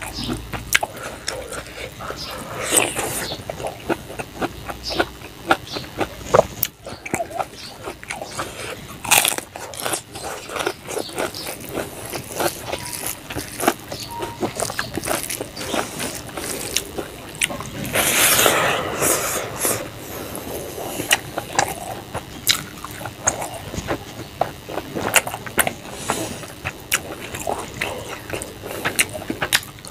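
Close-up eating sounds of a person eating rice and fish curry by hand: wet chewing and lip smacking, with many short irregular clicks throughout and one longer, louder noisy sound about eighteen seconds in.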